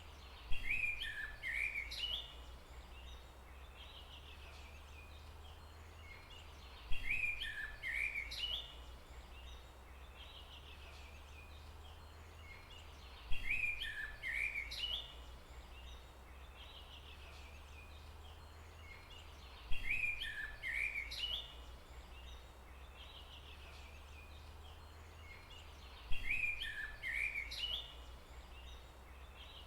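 A short bird call about a second and a half long, repeated five times at even gaps of about six and a half seconds, each repeat identical. Under it runs a steady low hum.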